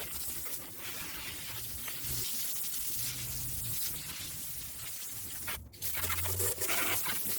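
Water from a garden hose spraying over a mini bike, a steady hiss and splatter as the degreased bike is rinsed off; the spray breaks off briefly about five and a half seconds in, then resumes.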